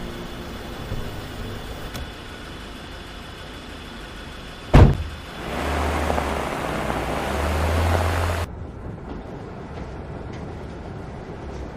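A car door slams shut once, about halfway through, followed by a few seconds of car engine and road rumble that cuts off suddenly.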